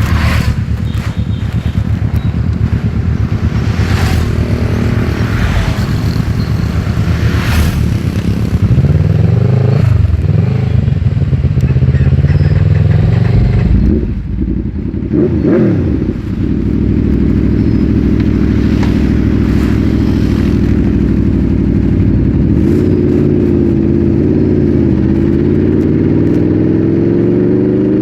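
Aprilia RSV4's V4 engine through an Austin Racing GP2R exhaust, running under load on the road. The revs rise, drop and pick up again in a sharp dip about halfway through, then hold steady before climbing in pitch near the end.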